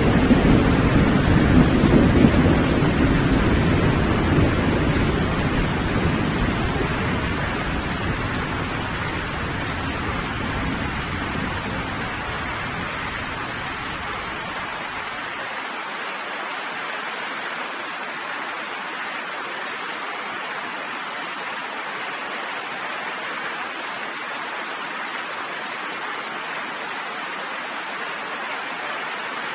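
Steady rain falling, with a low rumble of thunder at the start that dies away over the first half, leaving only the even hiss of the rain.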